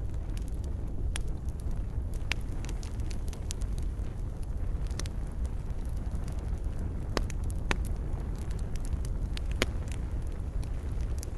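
Fireplace fire crackling: a steady low rumble with sharp, scattered pops every second or two.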